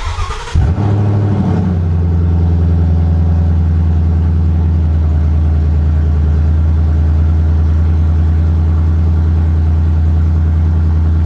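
2015 Ford Mustang GT's 5.0-litre V8 starting up: a brief crank, a flare of revs that rises and falls over the first couple of seconds, then a loud, steady idle.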